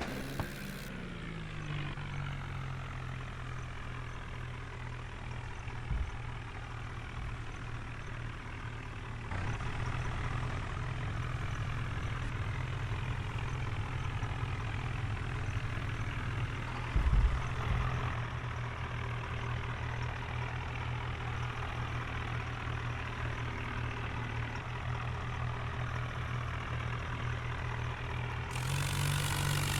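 New Holland tractor's diesel engine running steadily, pulling a fully loaded trolley. Its pitch drops in the first second and climbs again near the end. There is a short, loud low thump about seventeen seconds in.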